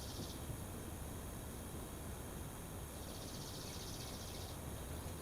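Faint steady background noise with a low hum, and a high, fine pulsing buzz that comes and goes: it fades just after the start and returns from about three seconds in to about four and a half.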